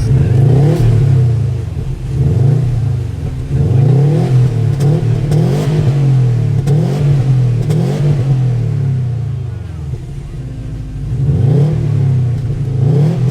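Subaru WRX STI S209's turbocharged 2.5-litre flat-four engine revved through its factory exhaust: about six quick blips, each rising and falling back, with a short spell at idle between the last two.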